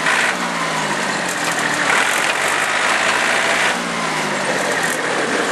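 John Deere 790 compact tractor's three-cylinder diesel engine running, its note dropping twice as the revs fall.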